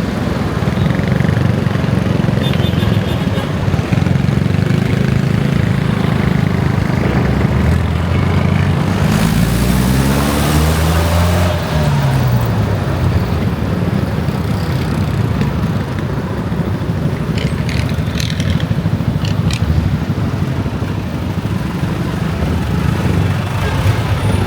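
Motorcycle engine running steadily while riding through city traffic. About eight seconds in an engine note rises and then falls again, with a short rush of noise around ten seconds in.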